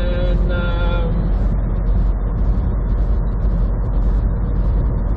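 Steady road and engine noise inside a vehicle's cab while driving at highway speed: a low, even rumble with tyre hiss.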